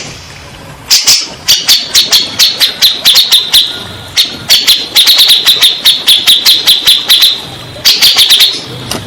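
Grey-cheeked bulbul (cucak jenggot) calling: a long run of sharp, rapid chattering notes, several a second. It starts about a second in, pauses briefly around the fourth second and stops near the end. This is the kind of call played as 'therapy' to get a quiet caged bird of the same species to answer.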